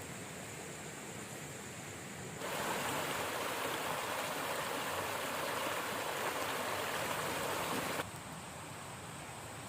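Quiet forest ambience with a steady high insect whine, then a river's flowing water rushing loudly for about five and a half seconds, starting and stopping abruptly.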